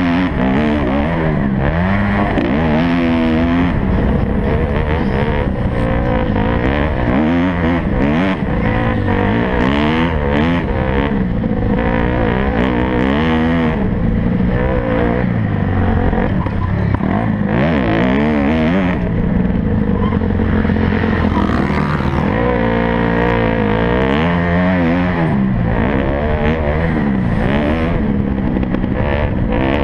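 Several motocross bike engines revving hard, their pitch rising and falling again and again as the riders work the throttle and shift.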